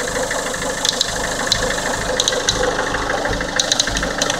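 Peugeot 407 HDi diesel engine idling, with irregular sharp clicks ticking over the running engine. This is the unexplained noise whose origin the owner is asking about.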